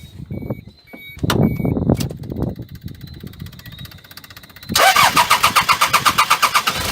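Starter cranking the Toyota 1KZ-TE turbo-diesel, beginning about three-quarters of the way in with a fast, even pulsing of compression strokes, roughly ten a second, after a couple of faint knocks. The engine is a hard starter that needs many turns before it fires.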